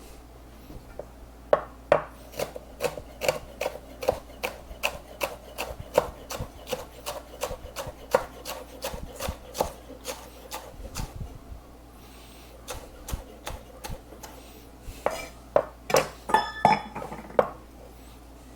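Knife chopping scallions on a cutting board: a steady run of quick strokes, about three to four a second, a short pause, then another run of chopping with a brief ringing clink near the end.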